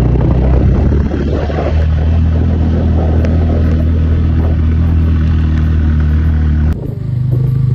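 Motorcycle engine running steadily while riding, with wind and road noise. The sound drops off abruptly near the end.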